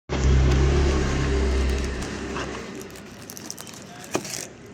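Diesel engine running steadily with a low hum, then dying away about two seconds in. A few faint clicks follow, with one sharp click near the end.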